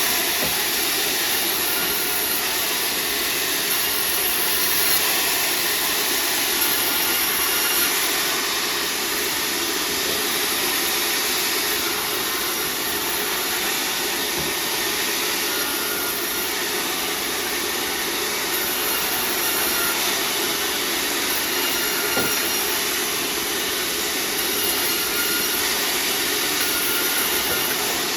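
Sawmill saw running steadily and cutting wood, a continuous even noise with no breaks.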